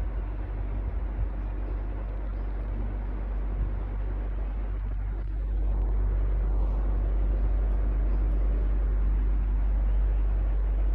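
Electric fan running steadily: even rushing air noise over a low motor hum. The low rumble gets louder about halfway through.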